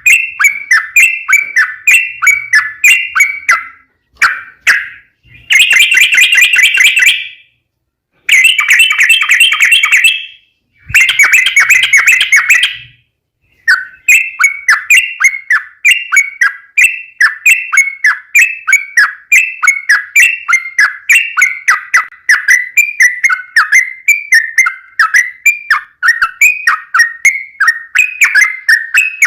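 Yellow-vented bulbul (trucukan) singing: quick chirpy phrases repeated two or three times a second, broken by three rapid trilling runs of about two seconds each before the chirping resumes steadily.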